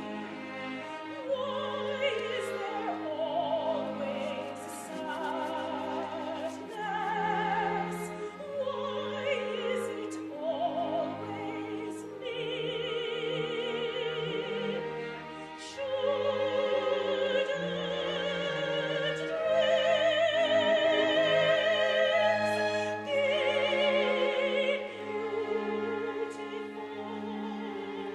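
Operatic singing with strong vibrato over orchestral accompaniment with bowed strings, swelling to louder held high notes in the second half.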